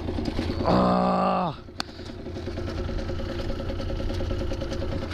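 Motorcycle engine running steadily, with a louder tone about a second in that drops in pitch as it fades, and a sharp click shortly after.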